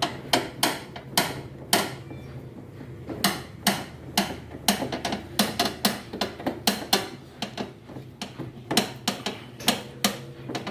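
Sharp metallic clicks, a few a second at an uneven pace, from a wrench tightening the 10 mm bolt that holds a washing machine's shock absorber to the tub.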